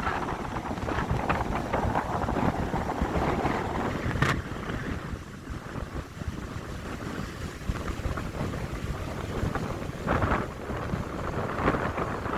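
Wind gusting across the microphone: a rumbling rush that swells and eases, with a single sharp click about four seconds in.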